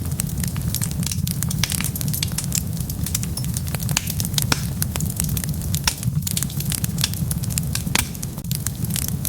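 Wood fire burning with a steady low rumble and dense, irregular sharp crackles and pops.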